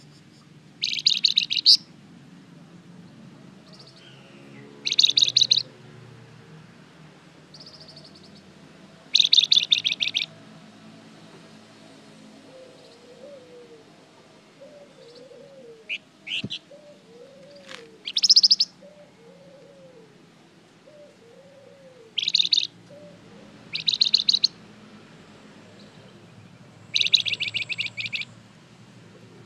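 A songbird sold in Indonesian bird-keeping as the 'Flamboyan' singing in short, high, rapid trilled phrases of about a second each, repeated every few seconds, with a couple of single short chips between them.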